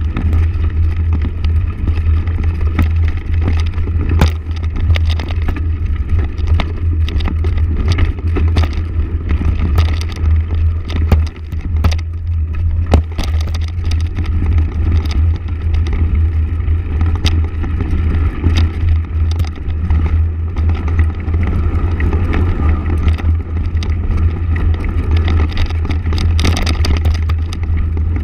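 Motorcycle running steadily while being ridden, with a heavy low rumble throughout and scattered short knocks.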